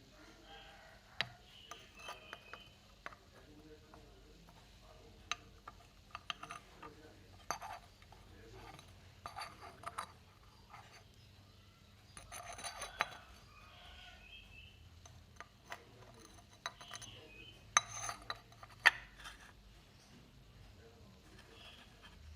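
Hard ceramic pieces being handled, with irregular clinks and short scraping rubs and two sharper clicks late on. No spindle is running.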